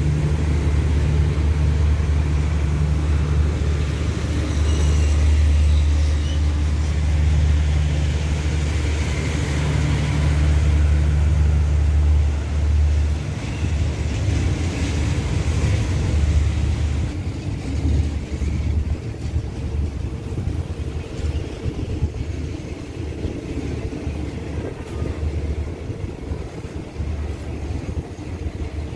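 Diesel-hauled passenger train at a station platform: a steady low engine drone for about thirteen seconds, then it eases into an uneven rumble as the coaches roll slowly past.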